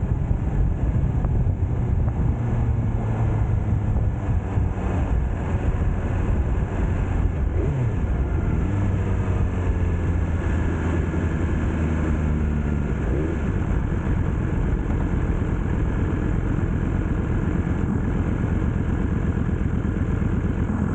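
BMW S1000R inline-four motorcycle engine running under way, its pitch sliding down and back up a few times as the throttle changes.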